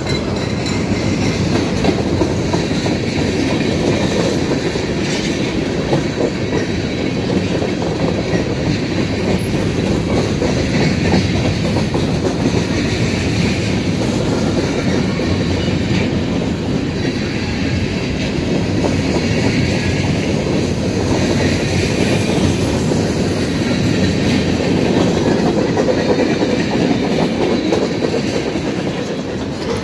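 Cars of a Norfolk Southern freight train rolling past close by: a steady, loud noise of steel wheels running on the rails.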